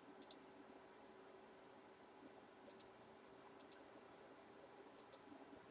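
Faint computer mouse clicks, mostly in quick pairs like double-clicks, five times over a low room hum.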